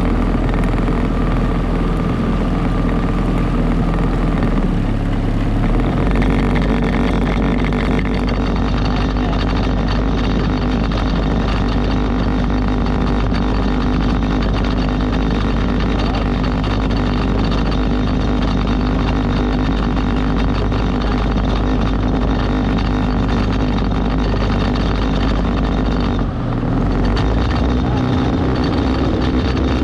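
A motorboat's engine running steadily while under way. Its note changes about six seconds in and dips briefly near the end.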